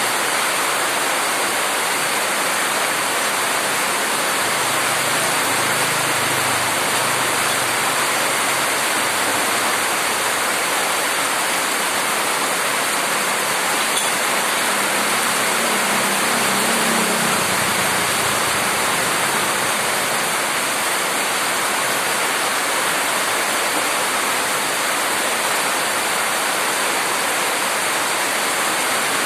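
Heavy rain pouring down in a steady, dense hiss. A faint low hum rises under it twice, about a quarter of the way in and again around the middle.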